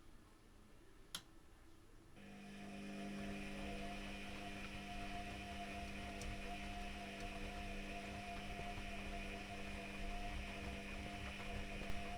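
Privileg Classic 30612 washing machine starting a steady electric hum about two seconds in, after a faint click, and running on evenly.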